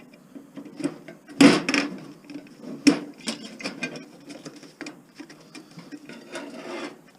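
Metal hand tools and small metal parts clicking and clinking while terminals are taken off an appliance's wiring terminal block, with a louder knock about a second and a half in and another near three seconds.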